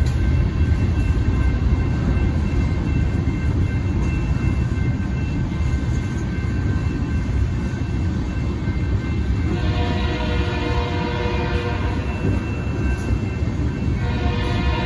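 Freight cars rolling through a grade crossing with a steady rumble of wheels on rail, while the crossing's electronic bells ring throughout. About ten seconds in a train horn chord sounds for about two seconds, and it sounds again briefly near the end.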